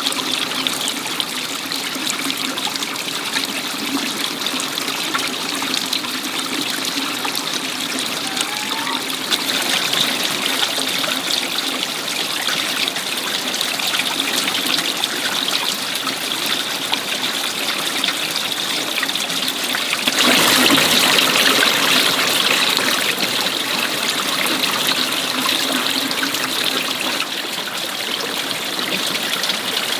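Water trickling and flowing steadily, as in a small stream. It gets louder for a few seconds about twenty seconds in, then settles back.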